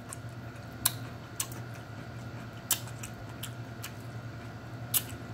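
Chewing of fresh seasoned cucumber slices with ranch dip: a handful of short, sharp, crisp clicks and snaps from biting and chewing, a second or so apart, over a low steady hum.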